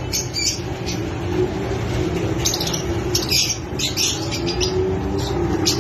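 Fischer's lovebirds chirping in clusters of short, shrill calls at the start, in the middle and near the end, over a steady low hum.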